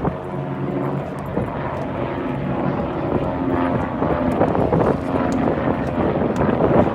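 Propeller airplane engine running overhead, a steady drone whose pitch shifts slightly.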